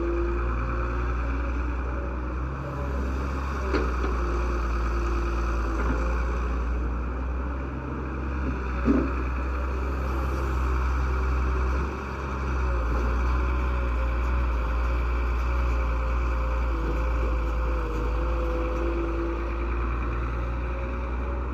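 Diesel tractor engines running steadily, with a few brief knocks.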